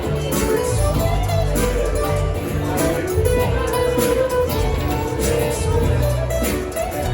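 Live band playing an instrumental passage with no vocals: a melodic lead line over sustained bass notes and steady drum hits.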